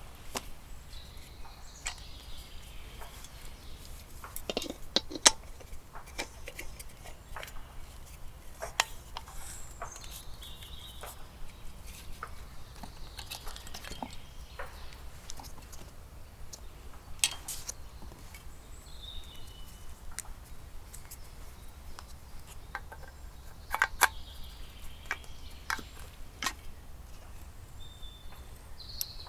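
Scattered sharp clicks and clinks, a few louder knocks among them, with short faint chirps now and then over a low steady rumble.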